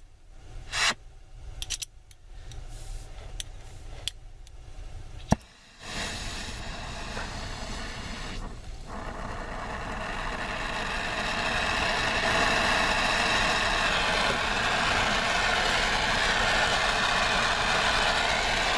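A few knocks and clicks of tools being handled, then a sharp click about five seconds in. Right after it a brazing torch flame starts burning with a steady hiss that grows louder over several seconds and then holds.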